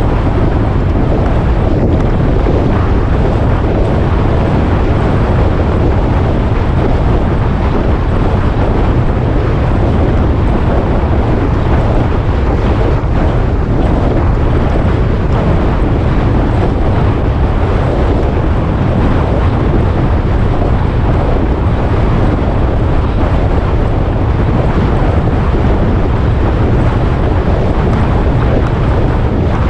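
Steady wind rush buffeting the microphone on a moving motorcycle, over the motorcycle's running engine and road noise.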